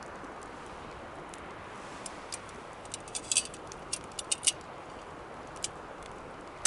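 Wood campfire burning with a steady hiss and sharp crackles and pops, most of them in a quick cluster a few seconds in.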